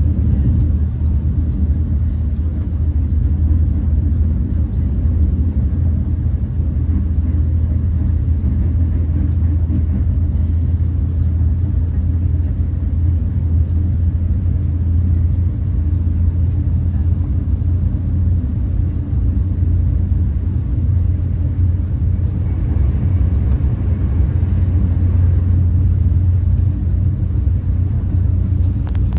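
Steady low rumble of a Renfe class 130 (Talgo 250) high-speed train running at speed, heard inside the passenger cabin. A faint hiss of air and track noise rises briefly a little after the middle.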